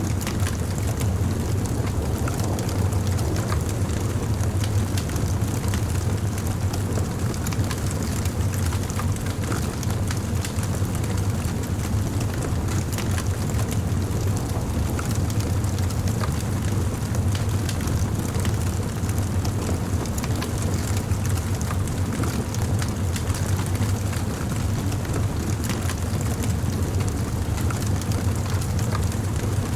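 Wood bonfire burning, with many small crackles and pops of the burning wood over a steady low rumble.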